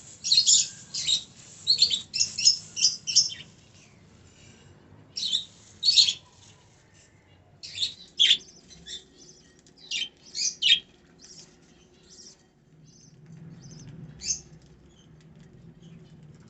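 Budgerigars chirping: many short, high chirps in quick clusters over the first few seconds, then scattered calls.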